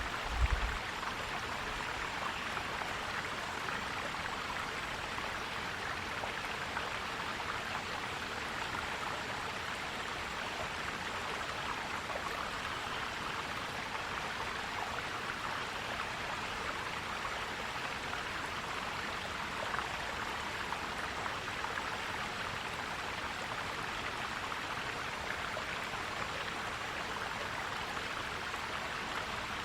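Forest stream flowing steadily over rocks, a continuous even rush of water. A brief low thump about half a second in.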